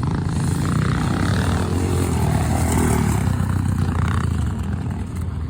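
Vintage pre-1978 scramble motorcycles racing, engines revving hard, getting louder toward the middle and easing off near the end as they pass.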